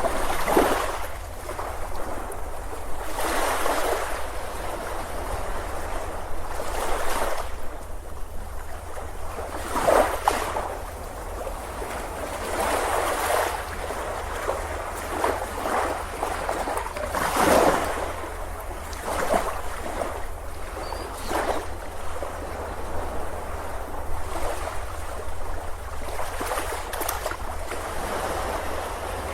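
Ocean surf: waves breaking and washing up a beach, a louder surge every three to four seconds over a continuous wash.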